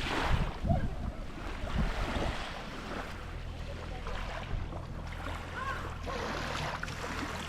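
Small waves lapping and sloshing around the boat, with wind rumbling on the microphone.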